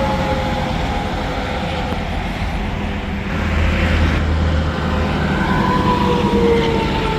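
Interstate highway traffic, with tractor-trailers and cars passing at speed; the tyre whine drops slowly in pitch as each one goes by, and the rush swells a little past the middle and again near the end.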